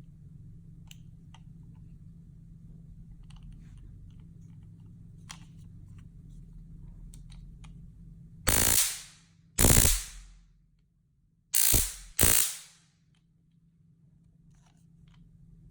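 POLICE 510 stun gun firing an electric arc across its test prongs in four short loud bursts, starting about eight seconds in; the last two come close together. Before them, faint clicks of the device being handled over a low hum.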